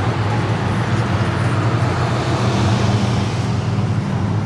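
Car engine idling and running at low speed with a steady low rumble, heard from inside the car as it pulls into a parking spot.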